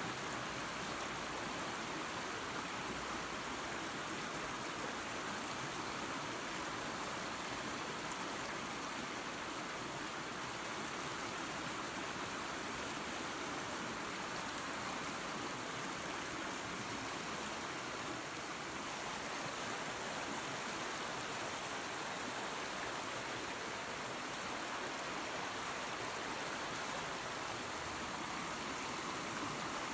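Small waterfall and creek running water: a steady, even rush with no changes.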